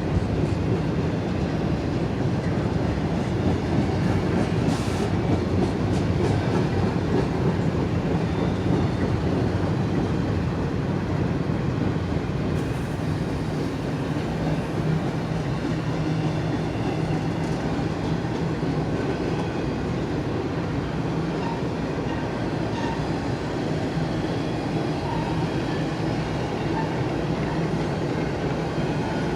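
Westbound BNSF freight train of empty intermodal cars rolling steadily past, wheels clattering over the rail with a few sharper clicks about four to seven seconds in.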